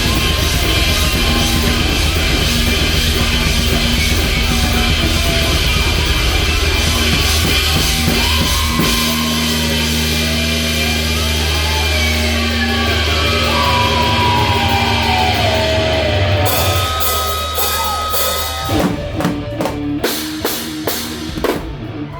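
Live heavy rock band with loud distorted guitar, bass and drums; a guitar note slides steadily down in pitch over a few seconds. Near the end the full band drops out into a run of separate drum hits, as at the close of a song.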